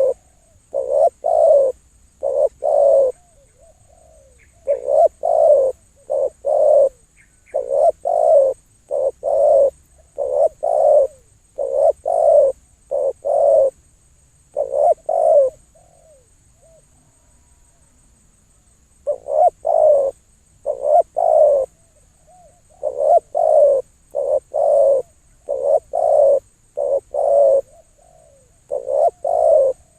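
A dove cooing loudly and repeatedly in phrases of several low notes, with a pause of about three seconds midway before the calling resumes.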